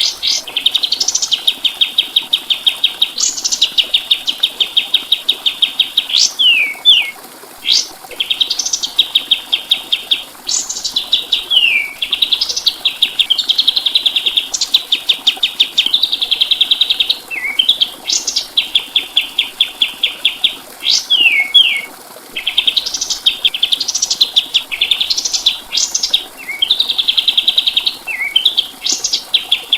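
Kapas tembak songbird singing: repeated phrases of fast, even trills, each started or ended with quick up-and-down sweeping notes, with brief pauses between phrases.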